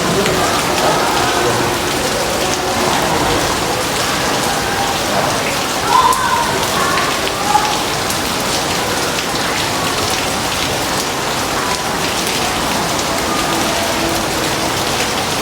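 Steady heavy rain falling, an even hiss of drops, with two brief louder sounds about six and seven and a half seconds in.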